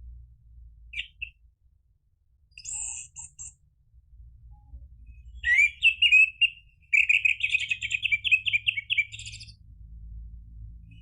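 Orange-headed thrush singing: a few scattered short notes, then about halfway through a loud rising phrase followed by a fast run of warbling notes lasting a couple of seconds.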